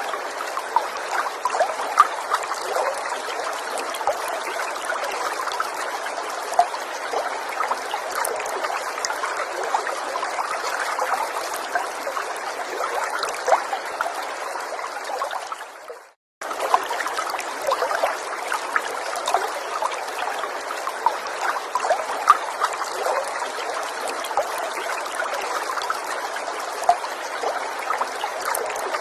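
Small forest stream trickling and babbling over stones, a steady flow sprinkled with little splashes and drips. Just past halfway the sound fades and cuts out for a split second, then resumes abruptly.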